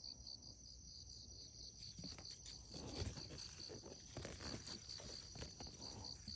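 An insect chirping steadily in an even rhythm of short, high pulses, about four a second. From about two seconds in, soft rustling and crackling in the vegetation joins it.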